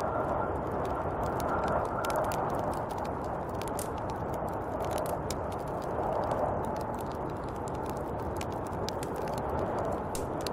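Snowstorm wind blowing steadily, with scattered light crackles and ticks throughout.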